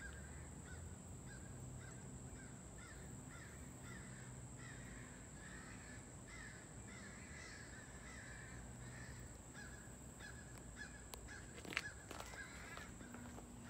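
Faint outdoor ambience of birds calling in many short repeated notes, over a steady high-pitched whine, with a single click near the end.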